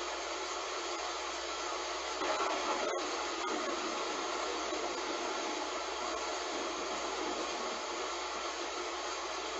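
Heavy rain falling as a steady, even hiss, swelling slightly a little over two seconds in, with a split-second dropout just after.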